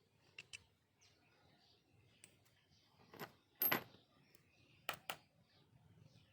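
A few short, sharp clicks and taps of small hard objects: a pair about half a second in, a louder single click about three and a half seconds in, and another pair near five seconds.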